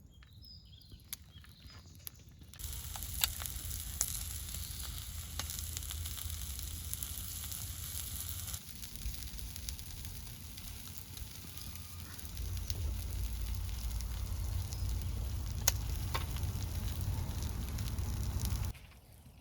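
Campfire burning: a steady hiss with scattered sharp pops and crackles. It starts suddenly a few seconds in and cuts off shortly before the end.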